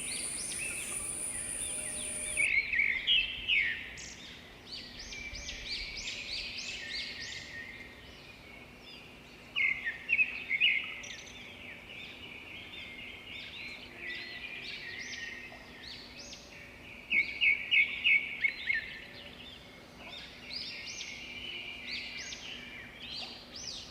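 Birds calling and chirping, with louder runs of quick chirps about three seconds in, again around ten seconds in, and around seventeen to eighteen seconds in.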